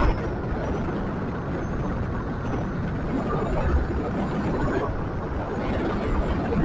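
Steady road and wind noise from riding a scooter along a street, with a faint high whine.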